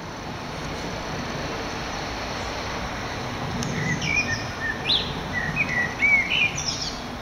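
A small bird chirping and twittering in short quick phrases from about three and a half seconds in, over a steady background rumble of outdoor noise.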